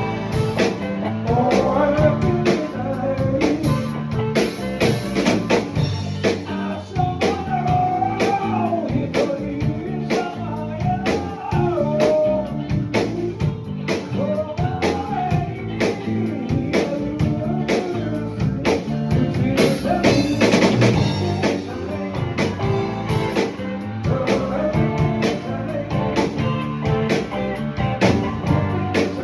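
Rock band playing a song live: drum kit and electric guitar, with a bending melody line over them through the first half.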